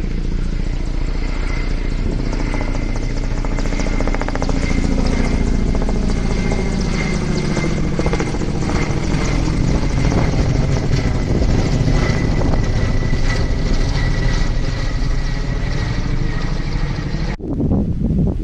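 Firefighting helicopter flying close by: rapid rotor chop over a low rumble, with a steady high whine. The sound cuts off abruptly about a second before the end.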